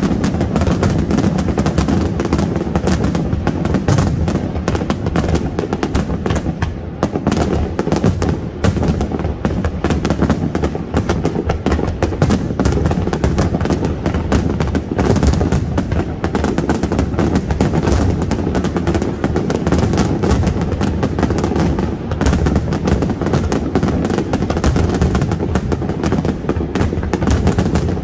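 Aerial firework shells bursting in a dense, continuous barrage. The bangs come so close together that they run into one another, with no pause.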